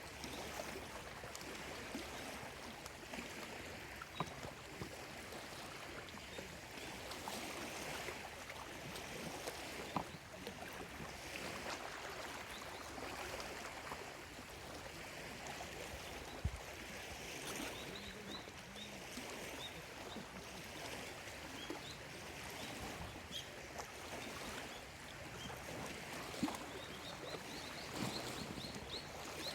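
Small lake waves lapping on the shore, a steady wash of water with scattered sharper splashes. Short high bird chirps come in near the end.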